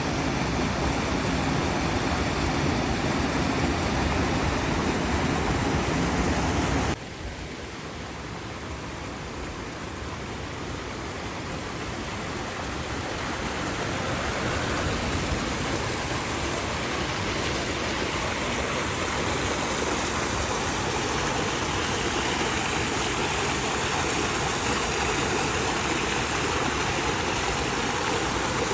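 Steady rushing of flowing river water. About a third of the way in it drops abruptly to a quieter level, then swells back up over a few seconds and holds steady.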